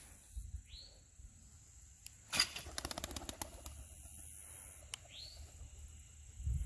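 Short single bird chirps that sweep up and curl back, one near the start and another about five seconds in. About two seconds in, a sharp click is followed by a rapid rattling clatter lasting about a second and a half.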